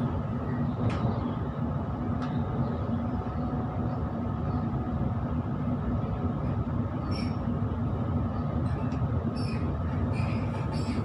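Electric suburban train running at speed, heard from inside the carriage: a steady rumble of wheels on rail with a low hum, and a few faint clicks and high ticks in the second half.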